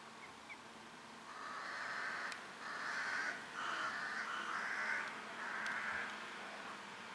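A bird giving about five harsh, hoarse calls in a row, each under a second long.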